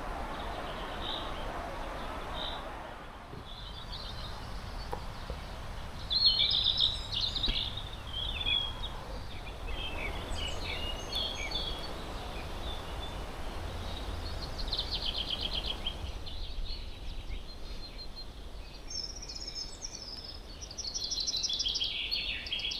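Small birds chirping and singing in several short bouts, starting about six seconds in, over a steady background hiss.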